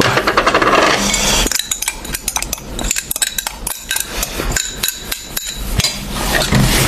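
Kitchen utensils knocking and clinking against a bowl as food is prepared: a rapid clatter for about the first second and a half, then a run of separate sharp taps.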